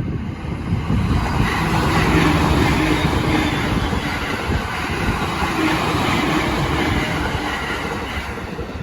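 A JR Takasaki Line train passing over a level crossing: the steady rush of wheels running on the rails, loudest about two seconds in and easing off near the end.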